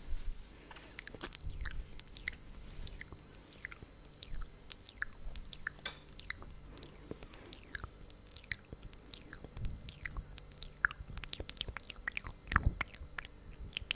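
Close-miked wet mouth sounds: lips coated in thick lip gloss smacking and parting with quick, sticky clicks, irregular and continuous.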